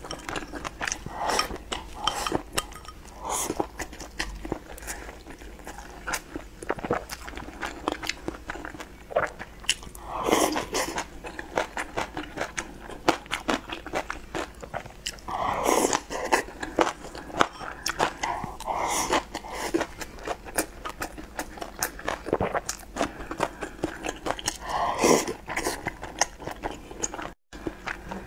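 Close-miked eating: chewing of rice and stir-fried greens with many small wet mouth clicks and lip smacks. A few louder mouth noises stand out about ten, sixteen, nineteen and twenty-five seconds in.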